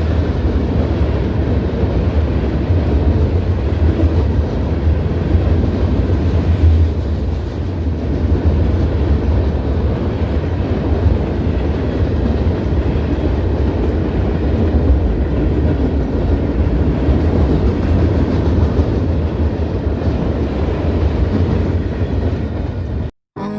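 Steady low rumble and running noise of a moving vehicle, most like a train in motion, which cuts off suddenly near the end.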